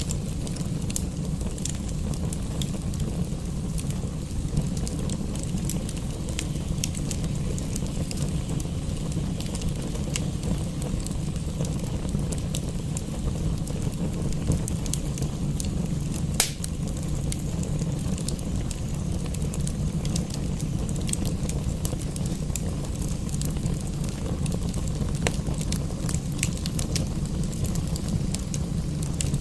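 Wood fire crackling in a fireplace, with scattered small pops and one louder pop a little past the middle, over a steady low rumble.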